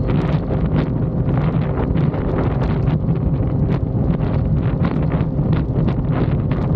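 Yamaha XSR900's three-cylinder engine running at a steady speed while riding, under heavy wind buffeting on the microphone.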